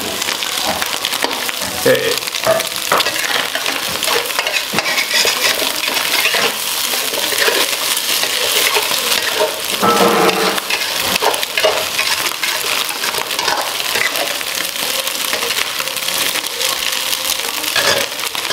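Sliced sausage and chopped spring onion sizzling in hot oil in a wok, with a spatula repeatedly scraping and knocking against the pan as they are stir-fried.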